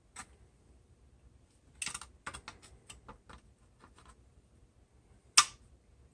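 Sharp metal clicks and taps as a license plate is gripped at its lip with a hand tool to bend it: a cluster about two seconds in, a run of lighter clicks after it, and one loud click about five seconds in.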